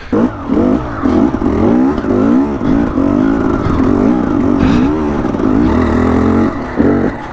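Two-stroke enduro motorcycle engine (KTM EXC 300) revving under load as the bike climbs, its pitch rising and falling with the throttle. It dips briefly near the end and picks up again.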